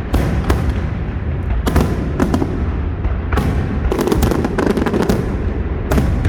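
Aerial fireworks display: a rapid run of shell bursts, sharp bangs over a continuous low rumble, with a thick cluster of reports about four seconds in.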